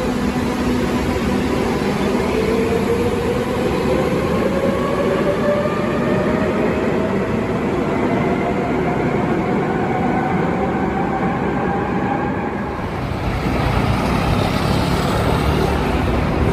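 Electric train's traction motors whining and rising steadily in pitch as it accelerates, over a running rumble. Near the end the whine gives way to a plainer rumble.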